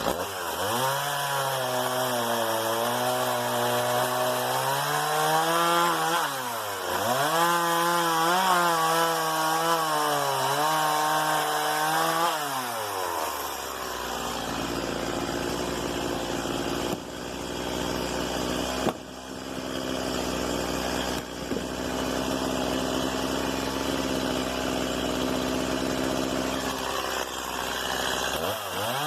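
Stihl MS 170 two-stroke chainsaw running at high revs for about half the time, its pitch sagging and recovering, then dropping back to a steady idle, and revving up again at the very end.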